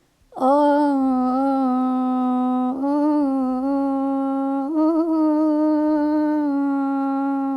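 A woman's wordless sung voice starts about half a second in and holds a long, steady note with small ornaments. It steps up briefly about five seconds in, then settles back. This is an Arabic maqam vocal demonstration of moving between maqam Saba and maqam Sikah.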